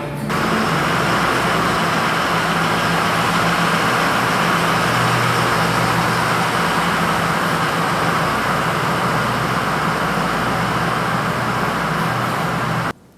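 Heavy truck's diesel engine running steadily with a low hum, stopping abruptly near the end.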